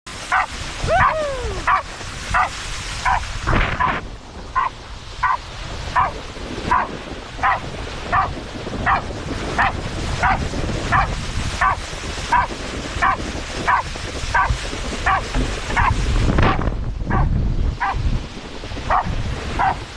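A dog barking over and over in a steady rhythm, about three barks every two seconds, with a falling whine about a second in. A low rushing noise runs underneath.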